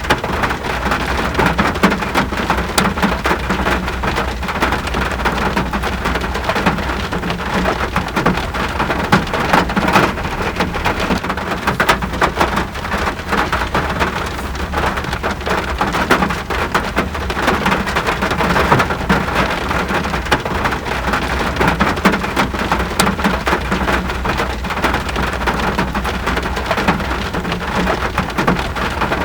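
Steady rainfall, an even hiss dotted with many individual drops ticking on surfaces, over a steady low rumble.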